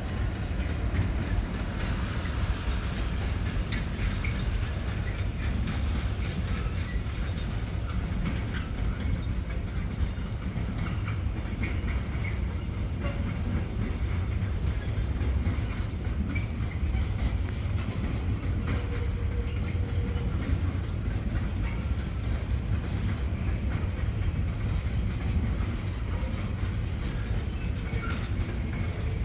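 Heavy freight train rolling steadily over a river bridge: a continuous deep rumble of loaded wagons, with the rapid clatter of wheels over rail joints.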